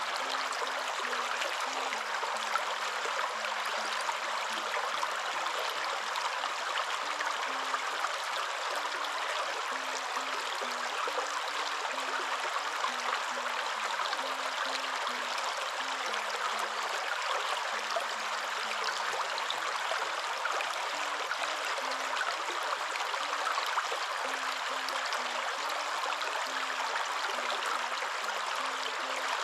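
Waterfall rushing water, a steady, unchanging wash of white-noise-like sound. Very faint low tones step up and down in pitch underneath it.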